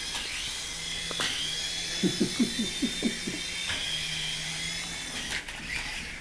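Small electric motor of a toy helicopter whining, its pitch rising about a second in and dropping again near four seconds, with a low hum beneath. A quick run of about seven soft knocks comes in the middle.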